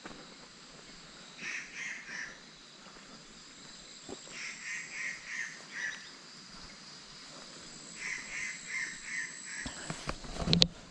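A bird calling in runs of four or five quick notes, three times over, against a faint steady insect drone. A single loud knock near the end.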